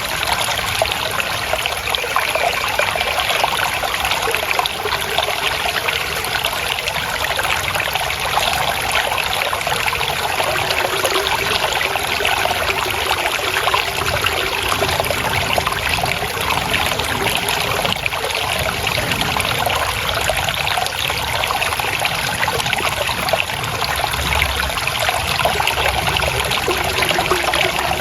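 Water flowing and trickling steadily, a small stream or rivulet babbling over stones.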